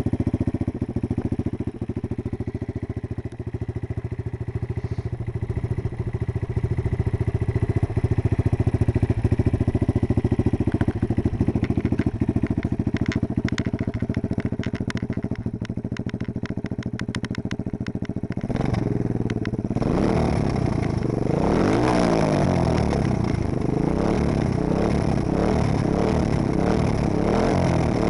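AJP motorcycle engine idling steadily, with some light clicking in the middle. About two-thirds in it is revved repeatedly, its pitch rising and falling with each throttle blip and louder than at idle.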